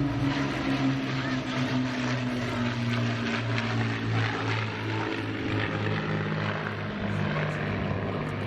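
Piston-engined propeller aircraft droning steadily, several engine tones running slightly out of step and shifting in pitch against each other.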